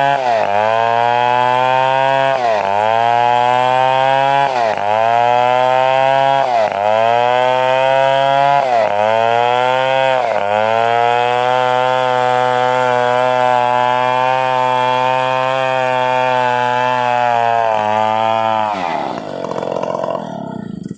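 Stihl 070 two-stroke chainsaw running at high revs while cutting coconut wood, its pitch sagging and recovering about every two seconds as the chain bites, then holding steady. About two seconds before the end the revs fall away and the saw dies down.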